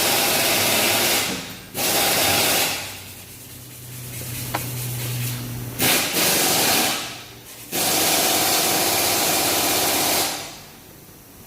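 About four loud bursts of hissing, each one to two and a half seconds long, starting and stopping abruptly. Between the second and third bursts there is a quieter stretch with a low hum and one small click.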